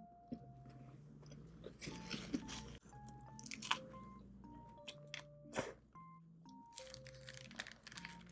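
Close-miked crunchy bites and chewing of crispy fried food, in several bursts, over soft background music.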